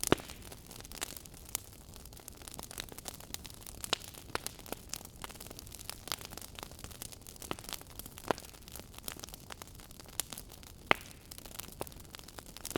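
Wood fire crackling in a fireplace: irregular sharp pops and snaps over a low steady hiss, with louder pops just after the start and at about eleven seconds.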